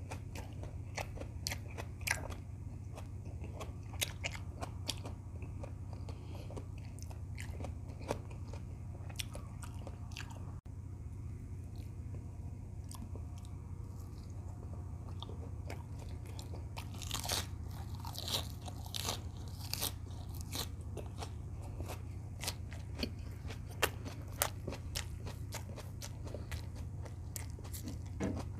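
Close-up chewing and biting of homemade beef tocino and rice, with scattered sharp mouth clicks and a denser run of crunchy bites about two-thirds of the way through, over a steady low hum.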